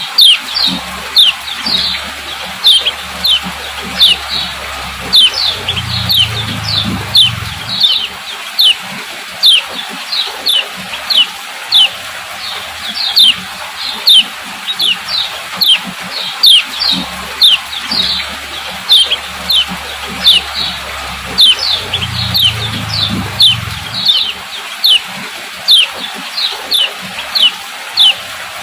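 Female common iora (kecial kuning) giving repeated sharp 'ciak' calls, each a quick high note falling in pitch, about one or two a second and often in pairs. This is the female's call, used to stir male ioras into singing.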